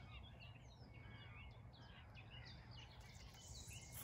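Faint birdsong: several small birds chirping and warbling in quick, varied phrases over a low, steady background rumble.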